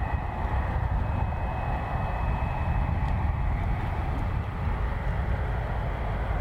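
Boeing 767's jet engines running: a steady rumble with a faint high whine.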